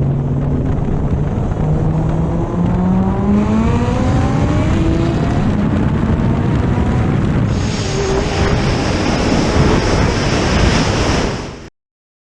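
Suzuki Hayabusa's inline-four engine pulling hard through the gears, its pitch climbing and dropping back at each shift. Later a rushing noise with a high whine takes over, and the sound cuts off suddenly near the end.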